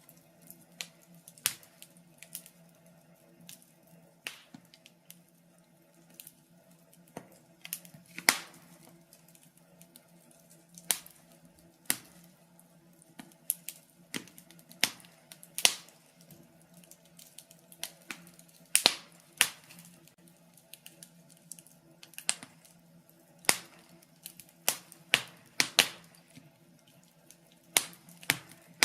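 Wood fire crackling in a fireplace: irregular sharp pops and snaps, several every few seconds, over a faint steady low hum.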